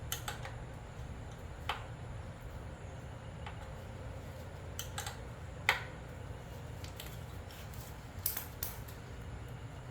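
Scattered clicks and clinks of metal hand tools being picked up and set against the generator, about eight light knocks at irregular intervals, over a low steady hum.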